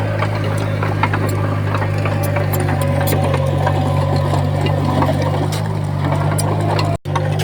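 Komatsu D20P crawler bulldozer's diesel engine running steadily under load, with scattered clicks and clanks, cut off briefly about seven seconds in.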